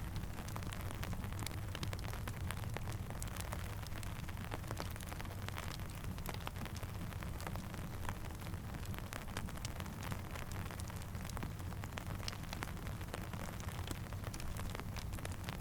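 Steady rain mixed with a crackling campfire: a constant hiss with many sharp pops scattered irregularly through it, over a steady low rumble.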